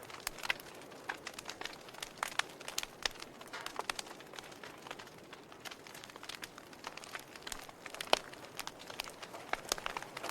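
Wood fire in a fireplace crackling: irregular sharp pops and snaps over a soft hiss, with one louder pop about eight seconds in.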